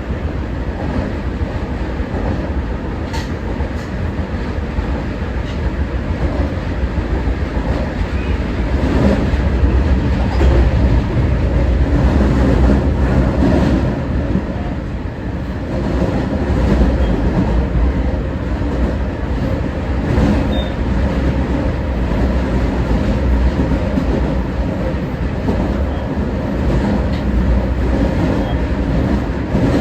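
Kita-Osaka Kyuko 9000 series electric train running between stations: a steady rumble of wheels on track, with a few faint clicks.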